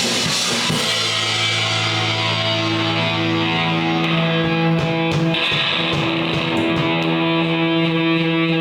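Live rock band playing: from about a second in, a guitar holds a long, steady chord that rings on, with drums.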